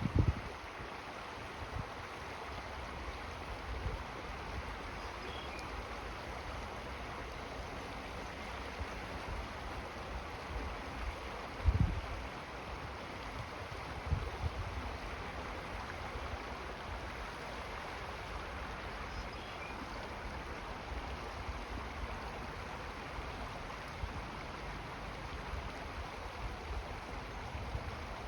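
Steady rush of running water, like a stream, with a low wind rumble and a few low thumps, the loudest about twelve seconds in.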